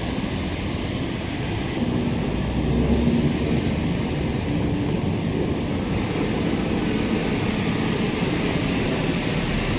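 Steady ambient noise: a constant rushing hiss over a low rumble, with a few faint brief tones, and no clear single source.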